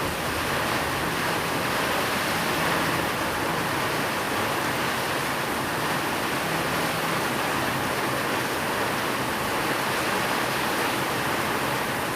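Steady heavy rainfall, an even hiss with no breaks, with faint low steady tones underneath.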